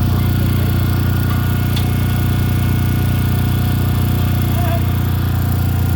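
Core drill running steadily, a low even buzzing hum with no change in pitch or level.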